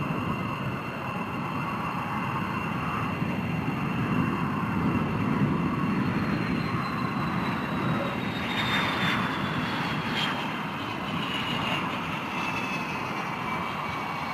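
F-22 Raptor's jet engines running with a steady rushing roar and a high whine that slowly falls in pitch.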